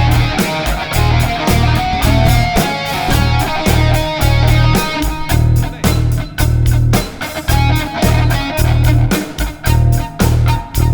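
Live rock band playing an upbeat number without vocals: electric guitar over pulsing bass and a steady drum beat.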